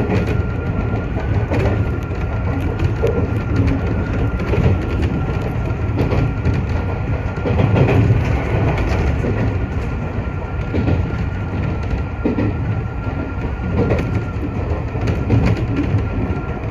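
Iyotetsu 3000 series electric train running along the line, heard from inside the front car: a steady rumble of wheels on the rails with clicks over the rail joints and a thin steady whine throughout.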